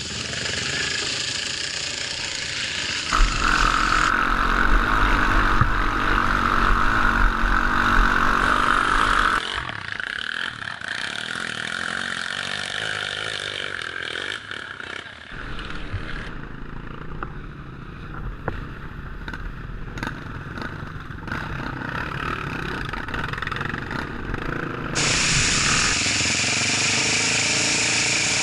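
Off-road motorcycle engines running, in several stretches that change abruptly in loudness and character.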